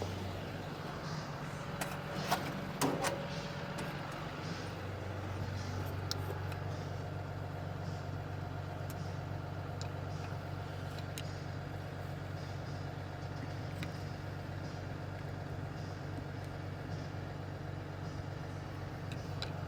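Truck engine idling steadily, with a few sharp metal clinks of tools about two and three seconds in as a brake clevis pin is worked out.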